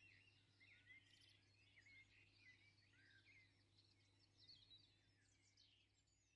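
Near silence: faint birdsong, many quick chirps and twitters from several birds, over a low steady hum.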